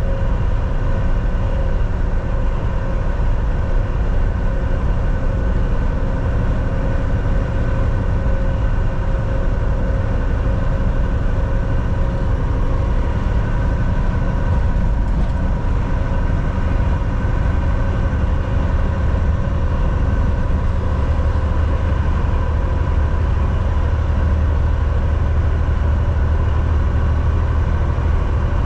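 Volvo VNL 760 semi-truck cruising on the highway, heard from inside the cab: a steady engine drone and road rumble with a few steady whining tones above it. The low rumble grows heavier for several seconds in the second half.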